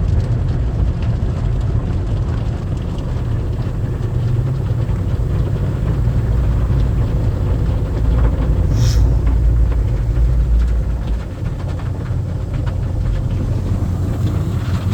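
Tunnel car wash machinery heard from inside the car: a steady low rumble of the spinning side brushes and water working along the car's body, heavier for a few seconds in the middle, with a short hiss about nine seconds in.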